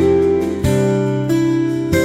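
Background music: acoustic guitar plucking notes and chords, a new chord struck about every two-thirds of a second and ringing out between strikes.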